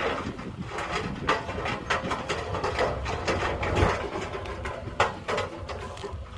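Heavy earthmoving machinery at work: a low engine rumble with many irregular clanks and knocks, the loudest near the end.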